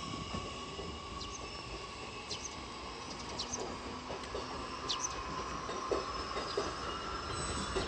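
JR Kyushu 813 series electric train rolling slowly into the station: wheels running on the rails with a steady rumble and a steady whine, and brief high squeaks scattered through.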